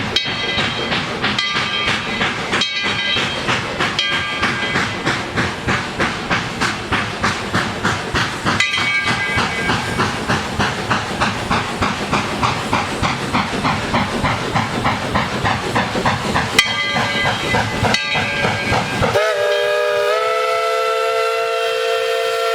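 East Tennessee & Western North Carolina No. 12, a narrow-gauge 4-6-0 steam locomotive, working with its train, its exhaust chuffing in an even rhythm of about two to three beats a second, with several short high tones over it. About nineteen seconds in, the steam whistle starts a long, steady blast.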